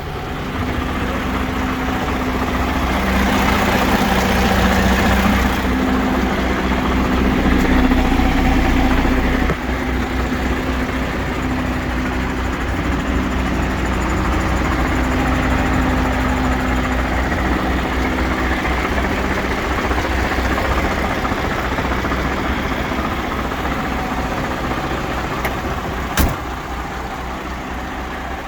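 The diesel engine of a MAN TGS 41.440 truck (an inline-six) runs steadily. It is louder for several seconds early on, then drops suddenly to a steady idle about ten seconds in. A single short, sharp click comes near the end.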